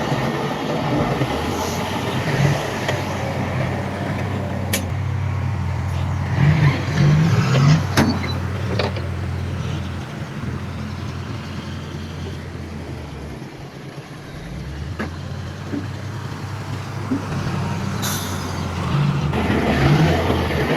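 Heavy diesel earthmoving machinery, bulldozer and dump trucks, running with a steady low engine hum that eases off briefly about two-thirds of the way through. A few sharp knocks, and a short hiss near the end.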